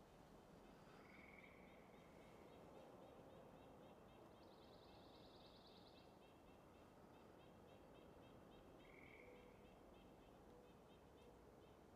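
Near-silent woodland ambience with faint, repeated bird chirps, a short buzzy trill about four seconds in and a few soft whistled notes.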